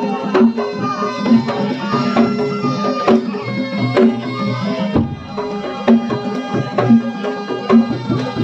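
Traditional Javanese bantengan music: drums struck in a quick, driving rhythm over held, ringing pitched tones.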